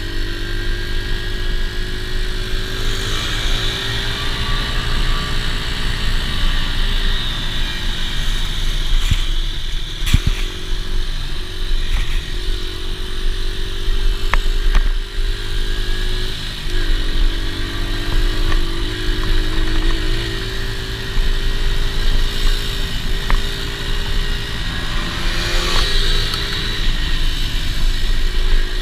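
Dirt bike engine running, its pitch rising and falling several times as the throttle is worked, over a steady low rumble.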